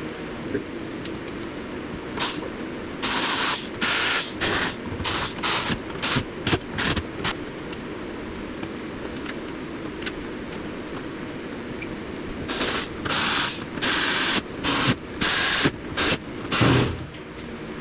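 A power driver running in short bursts, a quick run of them twice over, driving in the bolts that hold the headlight brackets on the top of the bumper.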